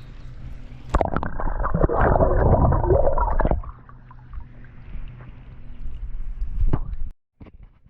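Water splashing and gurgling as a caught carp is released back into the creek, loud from about a second in for two and a half seconds, then quieter with a couple of sharp knocks.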